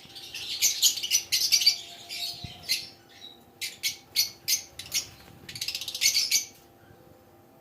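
Several small pet parrots (love birds) chirping and squawking in rapid high-pitched flurries, with single calls in between, thinning out near the end. A faint steady hum underneath.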